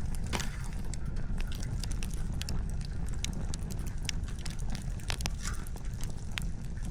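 Wood fire crackling: irregular sharp snaps and pops of burning firewood, several a second, over a steady low rumble.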